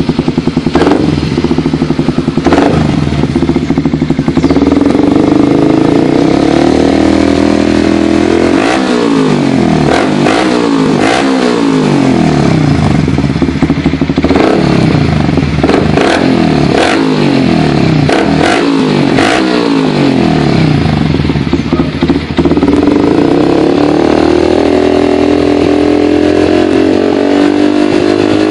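Yamaha New Vixion's single-cylinder four-stroke engine running through a loud aftermarket Akrapovic GP-style exhaust, held at a steady rev, then blipped again and again from about 8 to 22 seconds in, with sharp pops and cracks between the blips, before settling back to a steady rev.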